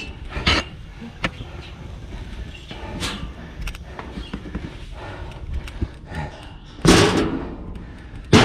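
Scattered knocks and clanks of hands and feet climbing steep stairs and metal ladders, with one loud breathy rush about seven seconds in.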